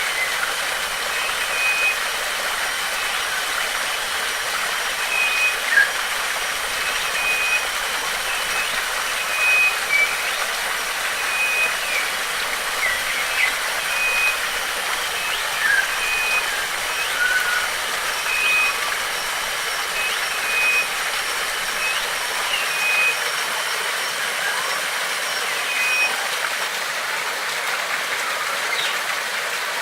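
Steady rush of flowing water from a stream or small waterfall, with a bird repeating a short, high, even note about once a second and other birds chirping briefly now and then.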